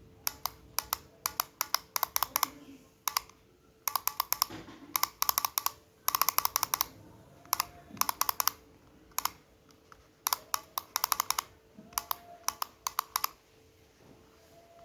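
Wind-up toy parrot's clockwork mechanism clicking, in short bursts of rapid clicks with brief pauses between.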